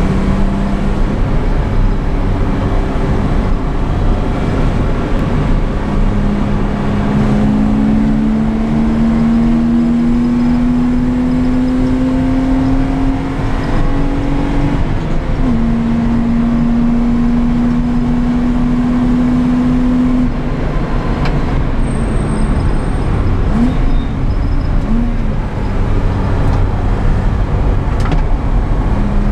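BMW E30 325i's 2.5-litre straight-six engine, heard from inside the cabin over heavy wind and road noise, pulling hard on track. The engine note climbs slowly, drops at a gear change about halfway, holds steady, and then gives two brief blips about two-thirds through.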